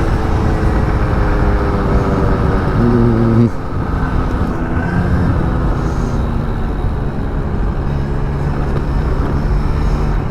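Small motor scooter running under way, its engine note steady over heavy wind rumble on the microphone, dropping in pitch and level about three and a half seconds in as the throttle changes. The scooter is misbehaving: it loses speed at full throttle and holds its speed only when the rider eases off or plays with the throttle.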